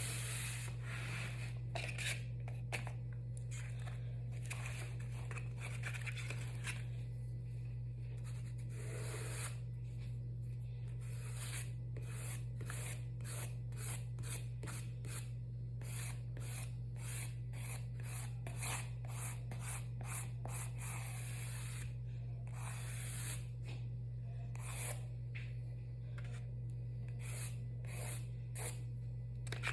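Dry colouring strokes on paper: rapid, scratchy back-and-forth rubbing as an area is shaded in, with short pauses between bursts. A steady low hum runs underneath.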